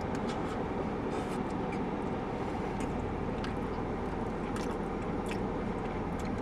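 Steady low background hum with faint scattered clicks of chewing and handling food.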